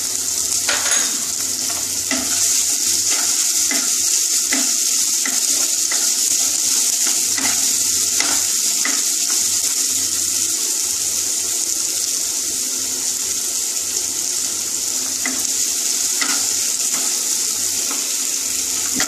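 Sliced onion, tomato and curry leaves sizzling steadily as they fry in oil in a non-stick kadai, with a wooden spatula scraping and tapping against the pan every so often while they are stirred.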